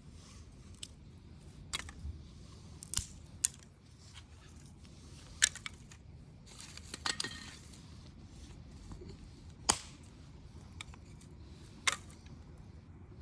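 Wood fire crackling, with irregular sharp pops and snaps every second or two, the loudest about five, ten and twelve seconds in.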